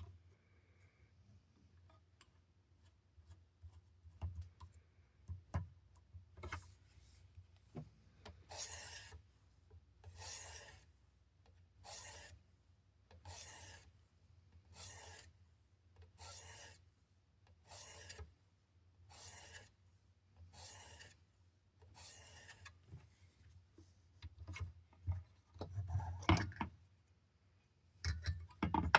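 Steel knife blade drawn in even strokes across the ceramic hone of a Worksharp Precision sharpener for the final finishing passes. There is about one scraping stroke every second and a half, then quicker, busier strokes near the end.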